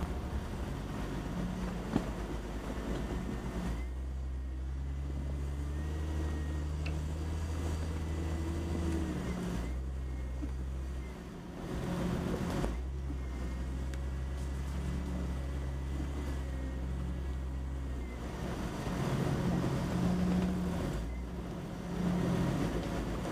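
Off-road Jeep engine running at low revs while crawling a rocky dirt trail. Its note holds steady for a few seconds at a time and changes pitch several times. There is a single knock about two seconds in.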